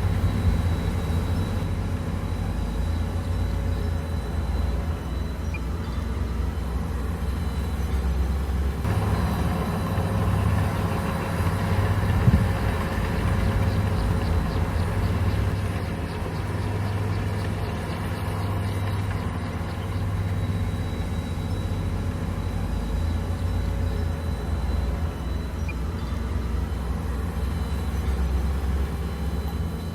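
Komatsu bulldozer's diesel engine running steadily in a low drone that grows louder from about nine seconds in. There is a single sharp knock a little past twelve seconds.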